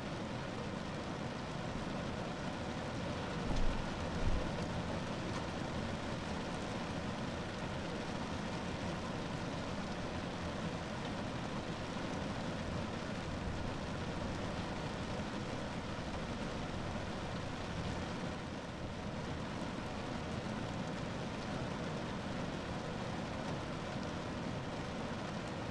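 Steady rain falling on a car roof, an even, unbroken patter. Two brief low thumps come about four seconds in.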